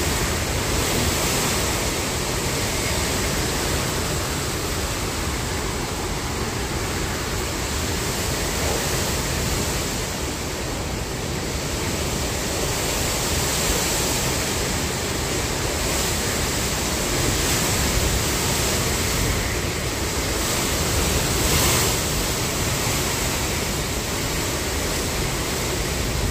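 Hurricane-force wind blowing steadily, with a couple of slightly stronger gusts in the second half.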